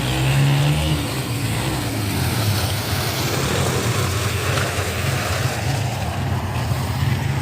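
Car cabin noise while driving: the steady hum of the engine and tyres with road rumble underneath.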